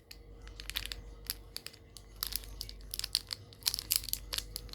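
Snack wrapper being crinkled and torn open by hand, in several short crackling spells.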